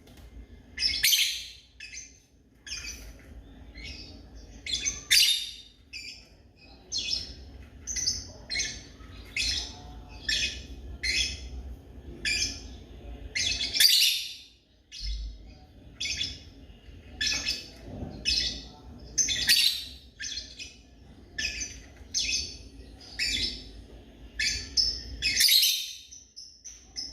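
African lovebird chirping over and over, short high calls coming a little more than once a second, some much louder than others.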